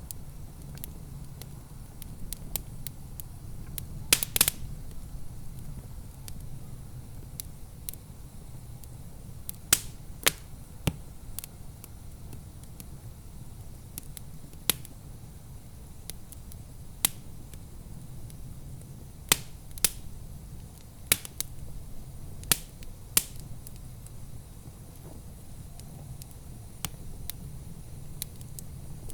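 Wood fire crackling: sharp irregular pops and snaps over a steady low rumble of the flames.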